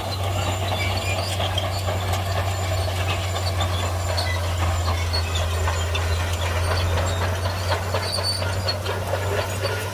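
Shantui crawler bulldozer working, its diesel engine giving a steady low drone while its steel tracks and blade rattle and clank.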